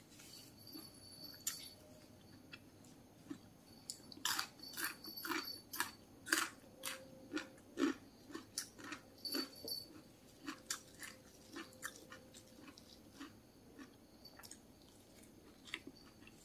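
A person chewing crunchy food with the mouth close to the microphone: a string of crisp crunches and wet mouth clicks, about two a second, thickest in the middle and thinning to softer chewing near the end.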